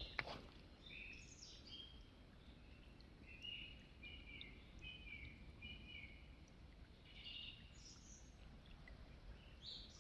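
Faint birdsong: short, repeated high chirps coming in runs, over a quiet outdoor background.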